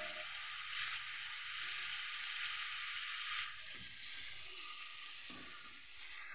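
Pieces of field frog frying in hot oil in a wok: a steady sizzle, with a few faint scrapes of a metal spatula stirring the pan.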